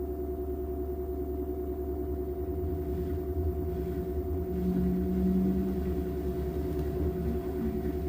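LG washing machine in its spin cycle: a steady hum and rumble from the spinning drum and motor, carrying fixed tones, with a louder low tone for about a second around five seconds in.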